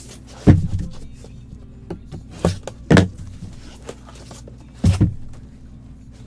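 A few sharp knocks and bumps, about half a second, two and a half, three and five seconds in, as items and packaging are handled on a table, over a low steady room hum.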